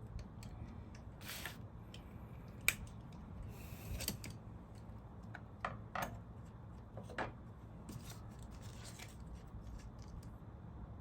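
Small metal clicks and short scrapes of hand work on a sewing machine, the loudest click about a third of the way in, as a screw and its gasket are taken off the oil pump plunger.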